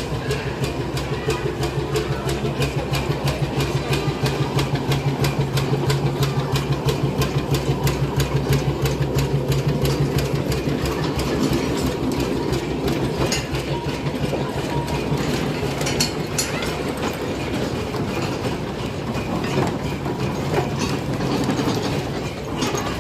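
Steam traction engine running with a fast, even exhaust beat that grows louder for a few seconds and then eases off.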